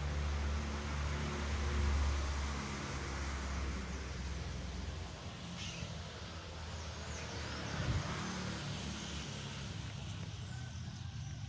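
A steady low engine hum under outdoor noise, with a few faint high chirps in the second half and a single knock about eight seconds in.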